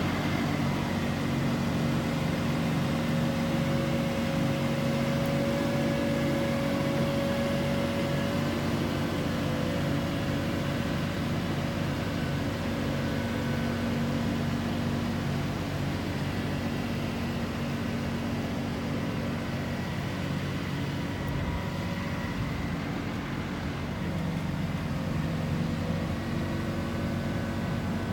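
Engine of heavy tree-removal machinery running steadily under hydraulic load, a low hum with a thin steady whine over it.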